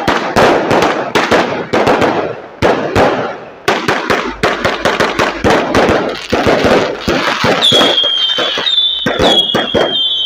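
Ground-launched fireworks firing a rapid, dense string of bangs and crackles. In the last few seconds a shrill whistle joins in, sliding slightly down in pitch.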